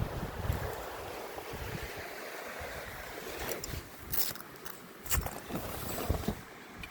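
Wind gusting across the microphone in low rumbles over a steady hiss of heavy sleet, with a few sharp taps about four and five seconds in.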